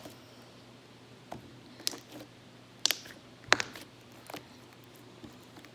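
Slime being kneaded and mixed by hand, making a few short sticky clicks and squelching pops at uneven intervals, the loudest about three and a half seconds in.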